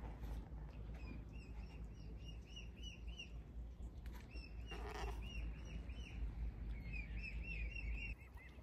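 A bird calling in quick runs of short, high chirps, about eight a second, over a low steady rumble.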